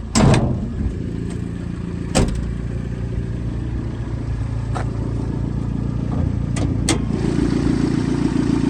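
Toyota 22R four-cylinder engine of a 1980 pickup idling steadily. A loud clunk comes right at the start and another about two seconds in, with a few lighter clicks later, as the hood is released and raised. The engine sound grows somewhat louder near the end.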